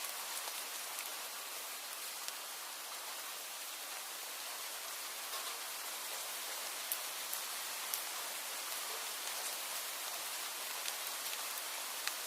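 Steady rain falling, a dense hiss with scattered sharper ticks of individual drops hitting a surface.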